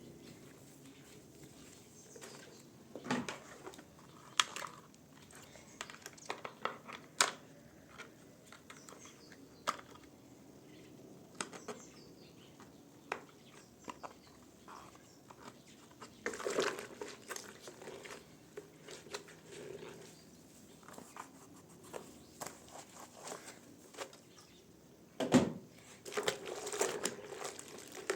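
Scattered clicks, light knocks and crinkly rustling of things being handled, with the loudest knock near the end.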